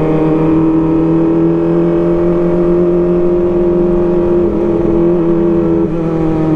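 Kawasaki ZX-25R's 250 cc inline-four running through an Arrow Pro Race exhaust, held at high, steady revs while riding. The engine note dips slightly a few times in the second half.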